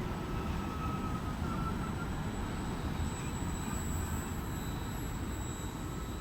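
Train running past, a steady low rumble with a faint high whine over it.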